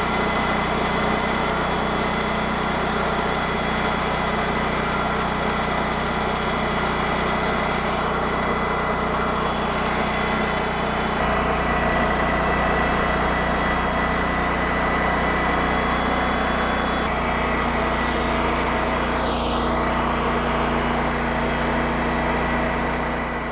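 TimberKing 2000 band sawmill's engine running steadily while it cuts a white willow log. Its note shifts slightly twice, and it fades away near the end.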